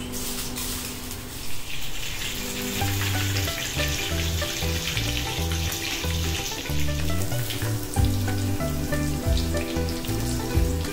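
A noodle-coated tikki deep-frying in hot oil in a kadai, with a steady sizzle that is strongest in the first half, over background music with a bass line.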